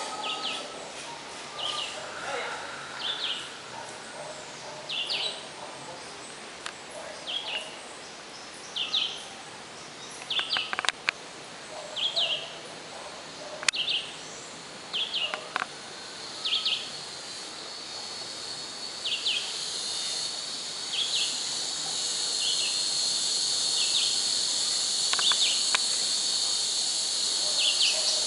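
A bird repeats a short, high call about once a second. About two-thirds of the way through, a steady high insect drone rises up under it and becomes the loudest sound. A few sharp clicks come near the middle.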